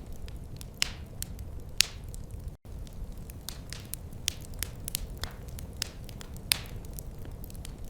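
Wood fire crackling in a fireplace: irregular sharp snaps and a few louder pops over a steady low rumble. The sound cuts out for an instant about two and a half seconds in.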